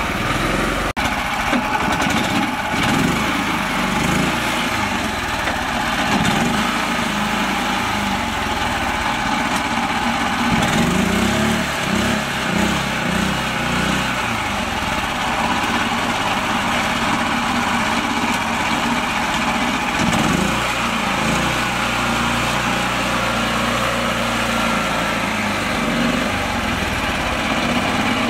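Mini tractor's small engine running continuously, its pitch rising and falling as the load changes. A single sharp click about a second in.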